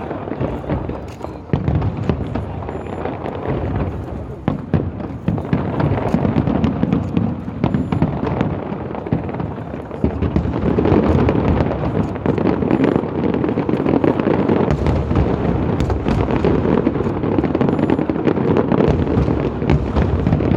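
Fireworks display: a dense, continuous run of bangs and crackles that grows thicker and louder about halfway through.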